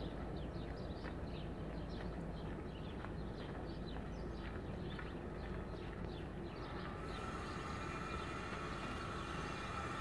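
Small birds chirping over a low, steady rumble, with quick, repeated, downward-sliding notes about three or four a second. About seven seconds in, a steady high tone with overtones joins.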